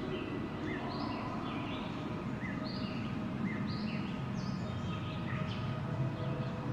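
Steady wind noise with small birds chirping over it: short, high, quickly bending calls, two or three a second throughout.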